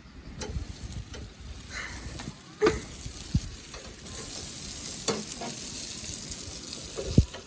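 Food sizzling in a hot pan: a steady high hiss that sets in about half a second in, with a few sharp knocks and clicks.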